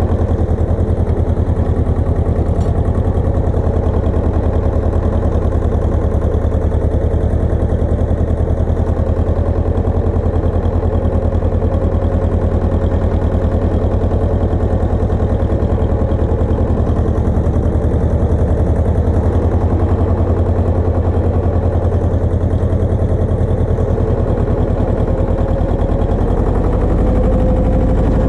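Engine of a Pasquali 980 EX two-wheel tractor running steadily with a rapid, even pulsing beat; its note shifts slightly near the end.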